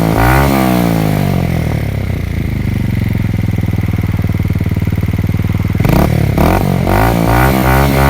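Yamaha motorcycle exhaust: a rev dies back to a steady idle, then from about six seconds in the throttle is blipped in quick repeated revs.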